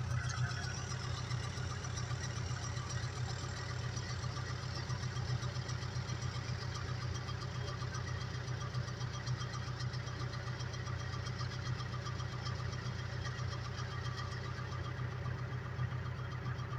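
Ursus 385 tractor diesel engine running steadily, a low, even, fast-pulsing engine note.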